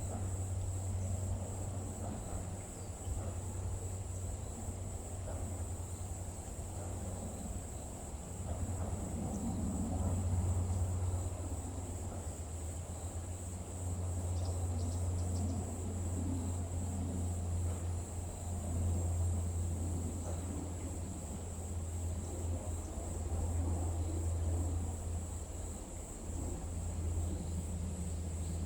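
Steady high-pitched chorus of crickets or other insects, over a low continuous rumble that slowly swells and eases.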